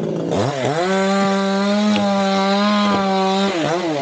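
Two-stroke chainsaw revved to full throttle about half a second in and held at a steady high pitch while it cuts into teak wood. It dips briefly and revs up again near the end.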